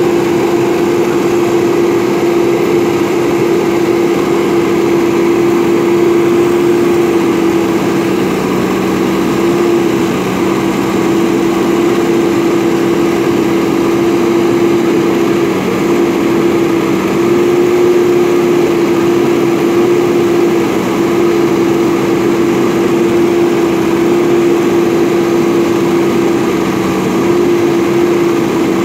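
JCB backhoe loader's diesel engine running steadily, with a constant droning tone throughout.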